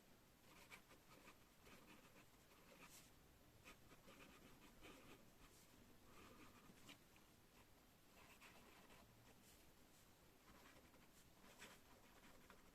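A pen writing on paper: quiet, irregular short scratching strokes, with the odd sharper tick.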